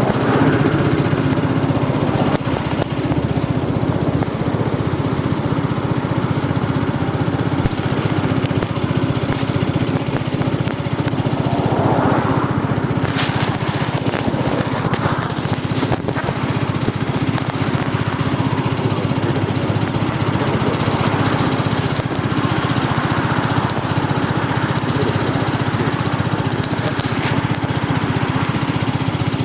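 Aprilia Tuono 125's single-cylinder four-stroke engine running steadily, with a few short clicks along the way.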